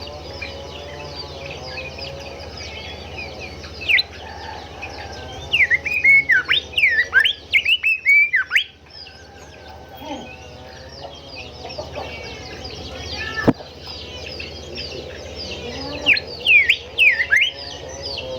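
Golden whistler singing loud whistled phrases of sharp downward-sweeping notes in two bouts, a few seconds in and near the end, over a constant background chorus of other small birds chirping. A single sharp click about two-thirds of the way through.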